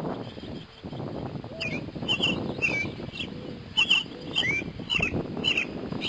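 Wind buffeting the microphone, with a small bird calling from about a second and a half in: a run of short, high chirps, some sliding down and some up in pitch, several a second.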